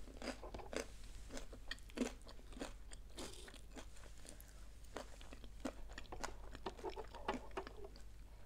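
A person quietly chewing food close to the microphone, with scattered small crunchy clicks.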